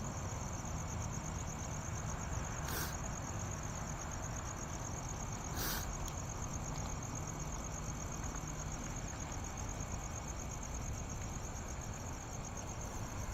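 Insects chirping steadily in a constant high, pulsing trill over a low, even hum of distant traffic, with two brief clicks about three and six seconds in.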